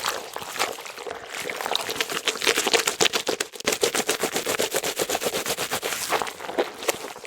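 Water spattering into a sink basin: a rapid, dense run of small clicking splashes, busiest in the middle.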